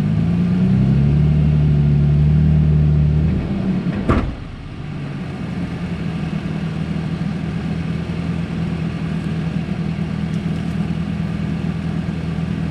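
Off-road vehicle engine revving up and holding under load as it climbs over rocks, then dropping back to a steady idle after a sharp knock about four seconds in.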